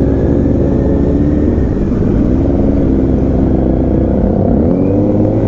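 Kawasaki motorcycle engine running loudly, its pitch dipping and climbing as it is revved, with a rise in revs about five seconds in.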